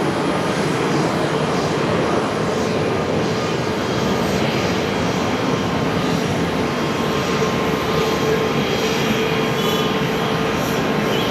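Jet airliner's engines running steadily, an even rushing noise with a steady hum under it.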